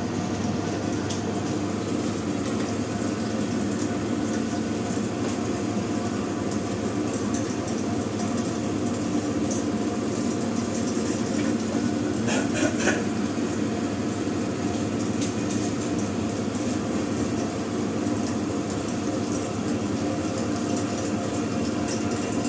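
Electric mincing machine running steadily on chicken, its motor giving an even hum. A brief clatter of clicks comes about halfway through.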